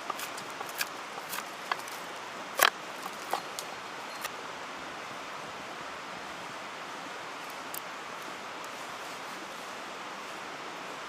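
Steady rush of a mountain stream, with a scatter of sharp snaps or crackles over the first four seconds, the loudest about two and a half seconds in.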